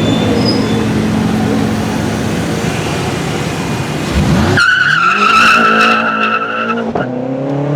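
Sports car engines running in street traffic. About halfway through, a steady high-pitched squeal holds for about two seconds and then cuts off. Near the end an engine revs up with rising pitch as a car pulls away.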